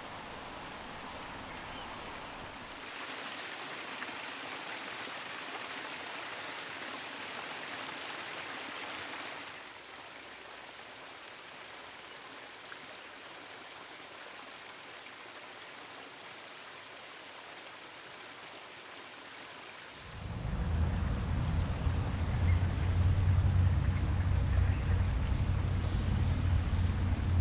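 Steady rushing of running water, changing abruptly in level a few times. About twenty seconds in, a loud low rumble joins it and lasts to the end.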